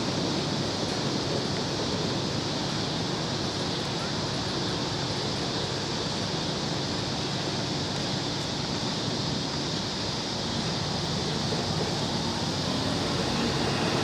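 Norfolk Southern freight train's cars rolling past, a steady even rumble of wheels on rail with no horn or bell standing out.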